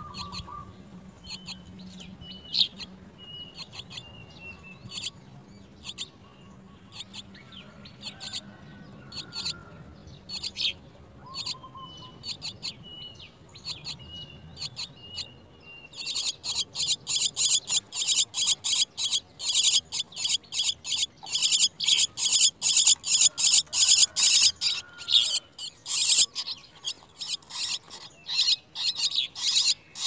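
Birds chirping: scattered short high chirps and a few thin whistles, then about halfway through a fast, loud run of sharp chirps, about four to five a second.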